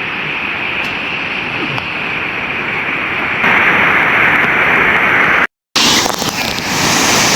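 Steady rushing of flowing water, louder from about halfway through, with a brief cut to silence near the end.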